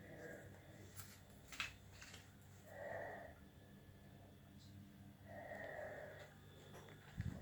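A person breathing close to the microphone, two audible breaths, with a faint click early on and a short knock near the end.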